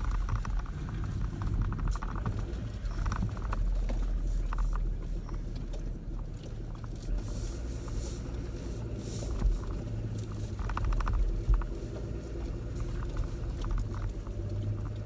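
Pickup truck carrying a camper, driving slowly on a dirt road: a steady low engine drone with scattered clicks, knocks and rattles over it.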